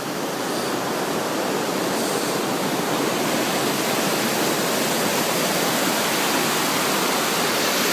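Waterfall rushing steadily: a large volume of water pouring out of a rock face and falling.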